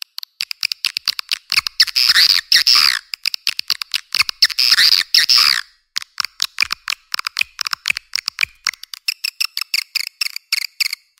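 Swiftlet calls of the kind played to lure swiftlets into nesting houses: fast clicking chatter broken by two louder, longer buzzy trills, at about 2 s and again at about 4 to 5.5 s.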